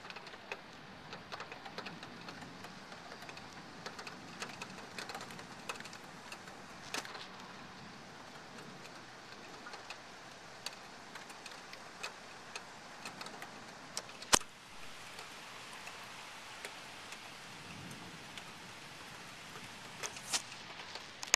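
Steady hiss of heavy rain, dotted with scattered sharp ticks of drops striking close surfaces, and one much louder sharp click about two-thirds of the way through.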